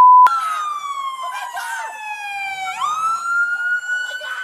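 Police siren wailing: its pitch falls slowly for nearly three seconds, then sweeps quickly back up and keeps climbing. A short steady beep sounds at the very start.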